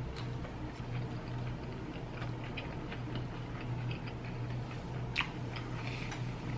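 Chewing a last bite of crunchy shrimp taco: scattered small crunches and mouth clicks, one sharper crunch about five seconds in, over a steady low hum.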